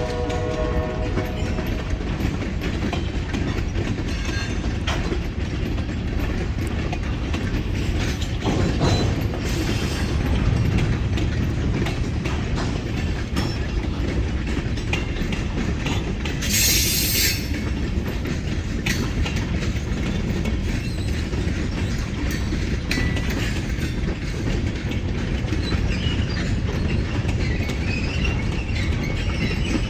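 Freight train rolling past, steel wheels clattering and clicking over the rail joints in a continuous roar. The last of a locomotive horn blast ends in the first second, and a brief hiss comes a little past halfway.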